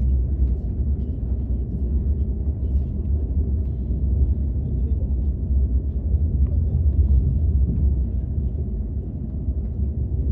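Steady low rumble of a KTX high-speed train heard inside the passenger car, with a few faint light ticks scattered through it.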